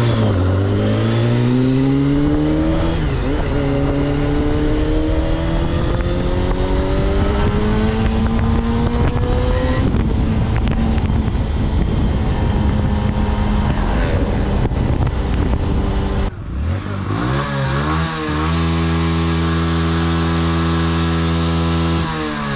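Honda CBR250RR MC22 inline-four engine pulling hard. Its pitch drops at a gear change near the start and then climbs steadily for several seconds. About two-thirds of the way through the sound changes suddenly and wind noise rises. The engine then holds one steady note for a few seconds and drops off just before the end.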